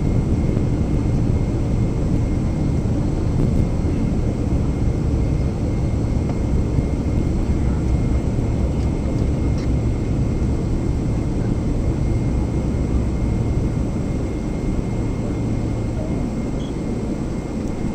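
Steady low rumble of a Boeing 777-300ER's engines and airflow heard inside the passenger cabin, with a faint steady whine above it, easing slightly toward the end.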